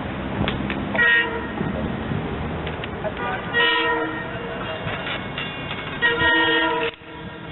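Multi-note train horn on an SD40-2W diesel locomotive sounding three blasts: a short one about a second in, a longer one midway and the longest near the end. A steady low engine rumble runs underneath.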